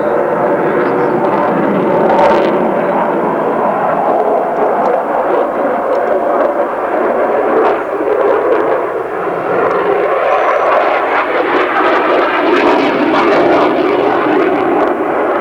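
Jet noise from the Eurofighter Typhoon's twin EJ200 turbofans, a loud, steady rushing sound with no break.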